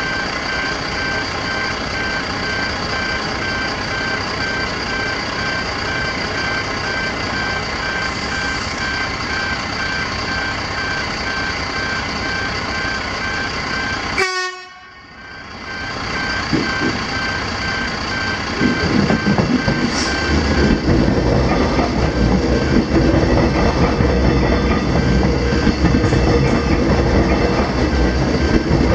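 Level crossing warning alarms sounding continuously: the loud pedestrian gate alarms drown out the crossing's Barker Technics e-bells. The sound drops out briefly about halfway through. From about two-thirds in, a train rumbles through the crossing under the alarms.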